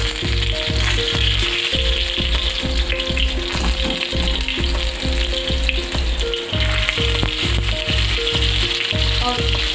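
Stuffed pointed gourds (parwal) sizzling and frying in hot mustard oil as they are laid into the pan one by one, a steady hiss. Background music with a steady beat plays underneath.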